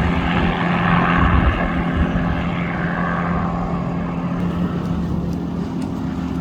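MD 500 helicopter in flight with a hanging load, a steady low drone of rotor and turbine under a rushing hiss that grows fainter after about three seconds as it moves away.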